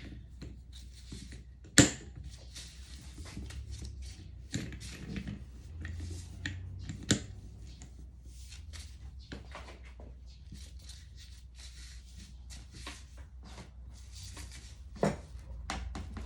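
Hand tools and metal engine parts clicking, clinking and scraping during work on a small motorcycle engine, with sharper knocks about two seconds in, about seven seconds in and near the end, over a steady low hum.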